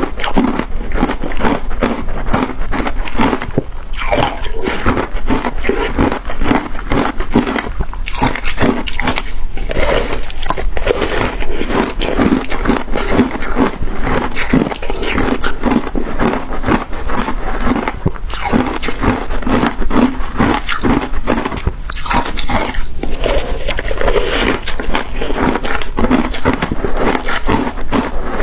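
Crunchy shaved ice being bitten and chewed close to the microphone: a dense run of crisp crackling crunches, with a few short pauses.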